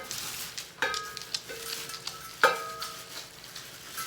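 New cookware pieces knocking together three times, each clink ringing briefly like metal, the loudest about two and a half seconds in, with packaging rustling between them.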